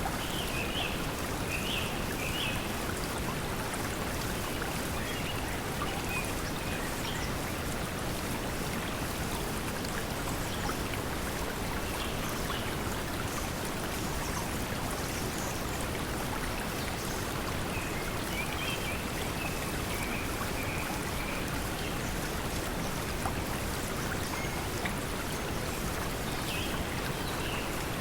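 Steady pink noise blended with flowing water, with faint high bird calls now and then: about a second in, around twenty seconds in and near the end.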